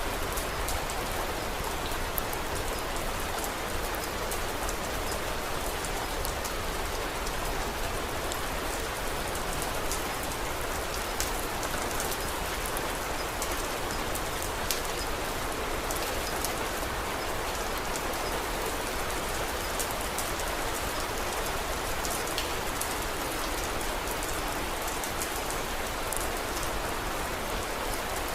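Steady rain falling, an even hiss with scattered small sharp ticks throughout.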